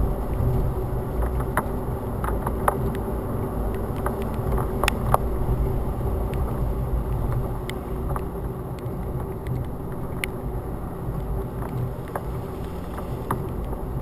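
Storm wind buffeting a GoPro mounted on a truck hood: a dense, steady low rumble, with scattered sharp ticks against the camera.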